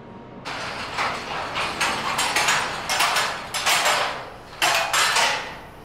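Metalworking machinery making a run of sharp, hissing mechanical bursts, about a dozen in quick irregular succession, stopping shortly before the end.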